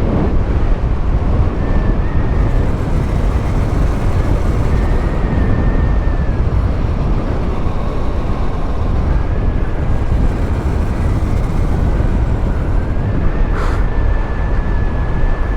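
Wind rushing over the microphone and tyre noise from a motorcycle coasting downhill with its engine switched off, steady throughout. A faint high whine comes and goes, and there is a single short click near the end.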